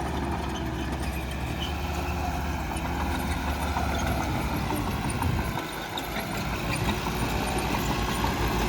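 Diesel engine of heavy earthmoving machinery running steadily, with light metallic clanking over it; it eases briefly about six seconds in.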